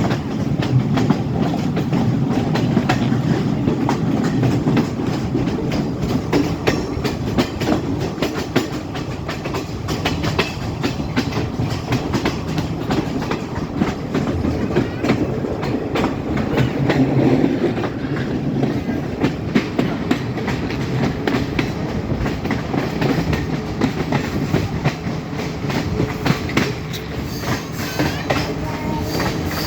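Class S14 diesel multiple unit train running along the line: a continuous rumble with a steady low hum and rapid, irregular clicking of the wheels over the rails.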